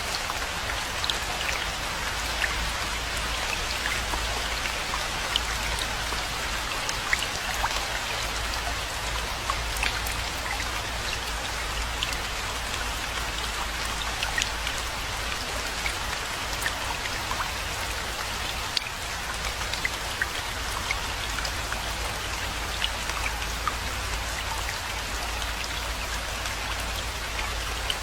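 Steady rainfall: an even hiss with many distinct drops ticking close by throughout, over a steady low rumble.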